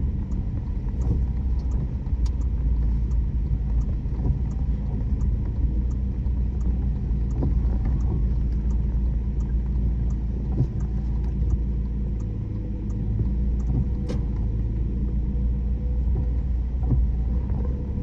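Steady low rumble of road vehicle noise, with a few faint clicks.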